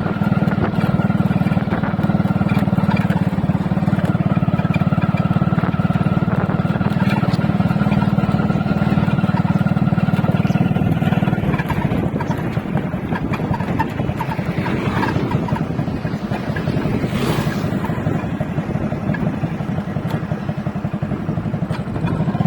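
Motorcycle engine running while riding, with a steady low hum that drops off about halfway through as the engine note eases. A brief rushing noise comes about three-quarters of the way in.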